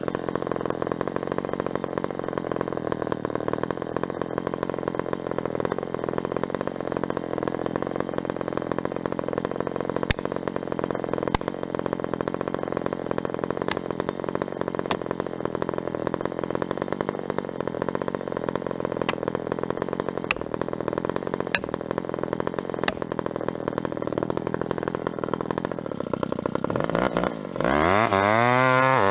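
An engine running steadily at a constant pace. About 27 seconds in, a louder sound with a rising, wavering pitch abruptly takes over.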